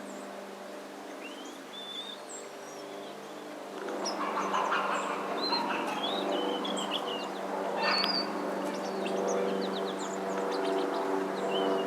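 Several birds chirping and calling in short, high notes scattered throughout, over a steady low hum that grows louder about four seconds in.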